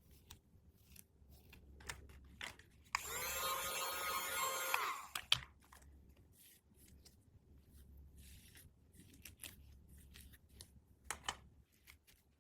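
Toy packaging being handled: scattered small clicks and rustles, with one loud pitched buzzing sound lasting about two seconds, starting about three seconds in.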